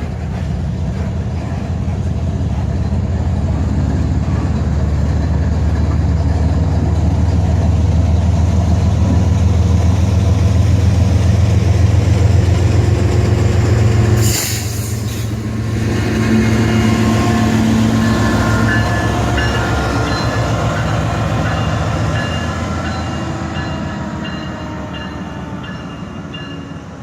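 GE diesel freight locomotives (CSX ES44AH and C40-9W) working a switching move: the engines' heavy low rumble grows louder, then a sudden sharp burst of noise about halfway through. After it, a few thin high squealing tones sound over the rumble as it fades near the end.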